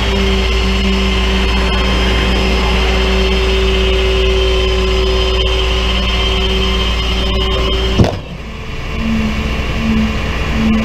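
Motor vehicle engine running steadily with a low rumble. About eight seconds in, it cuts off abruptly at a sharp click and gives way to quieter sound with a short tone pulsing about twice a second.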